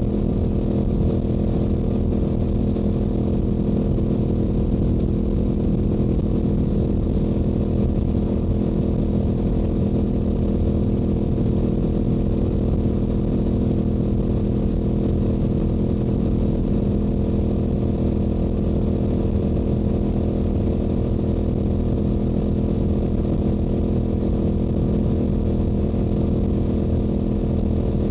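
Stock Yamaha YZF-R7's parallel-twin engine and exhaust running at a steady highway cruise, its pitch holding constant with no gear changes or revving.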